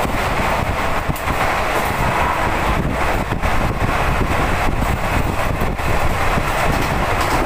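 Passenger train running at speed, heard from an open coach doorway: a steady, loud rumble of the wheels on the rails, with wind buffeting the microphone.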